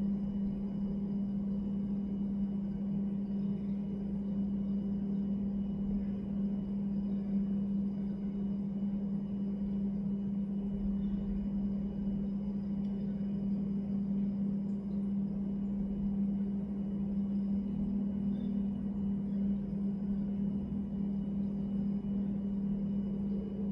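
A steady low hum holding one pitch, with a faint low rumble underneath; the hum runs on unchanged under the speech either side, so it belongs to the low-quality recording rather than to anything on the water.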